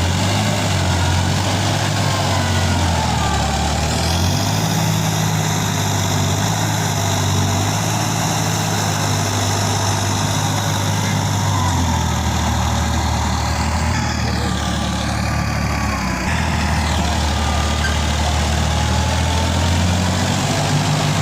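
Massey Ferguson 9500 Smart tractor's diesel engine running steadily with a rotavator, its note dropping and recovering several times as the load changes.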